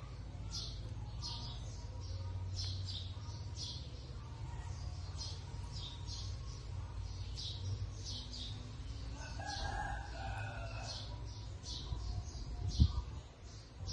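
A small bird chirping over and over, short high chirps about twice a second, over a steady low rumble. A single dull thump near the end is the loudest sound.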